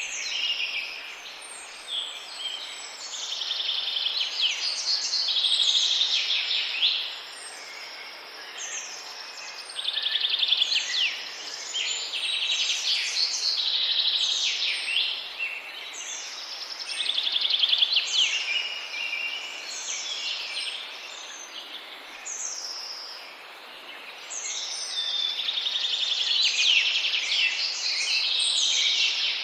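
A dense chorus of many small birds calling at once, high chirps and buzzy trills overlapping, swelling and fading every few seconds.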